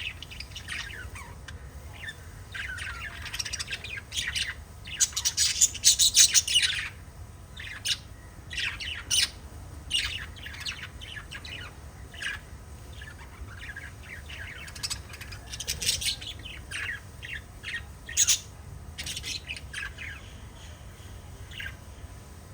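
Several pet budgerigars chirping and squawking over one another in quick, overlapping calls, loudest in a burst about five to seven seconds in.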